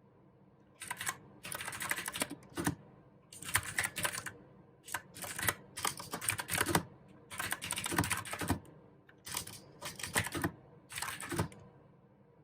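Mechanical keyboard with clicky blue switches being typed on in short bursts of keystrokes, starting about a second in and stopping about a second before the end.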